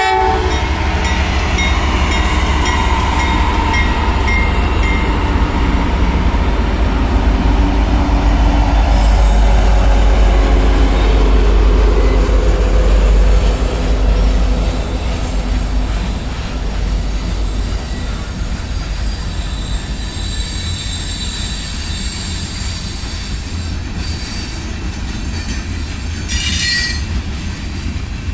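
Norfolk Southern diesel locomotives rumble past at close range, followed by freight cars rolling by with clattering wheels. The rumble is heaviest for the first half and eases as the locomotives give way to cars, about 14 seconds in. Thin, high metallic wheel squeal rises later on, with a brief clank near the end.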